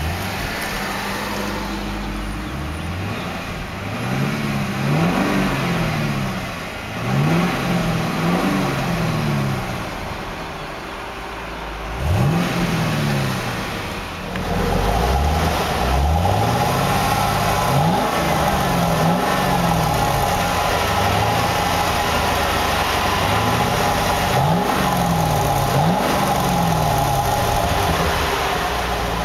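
Chevrolet Camaro SS's 6.2-litre LS3 V8 with dual exhaust, parked and revved in a series of blips, each sweeping up in pitch and falling back to idle, about six times a few seconds apart.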